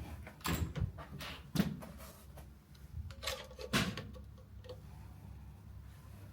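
A few scattered knocks and clicks of handling in a small room, the loudest in the first four seconds.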